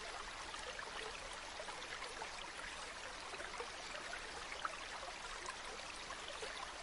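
Water flowing steadily in a small stream, trickling with many tiny splashes and drips.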